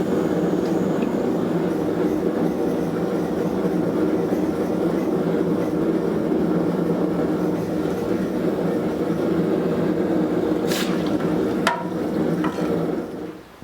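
Steady machine noise from shop equipment running, with a couple of sharp clicks near the end; it cuts off suddenly about 13 seconds in.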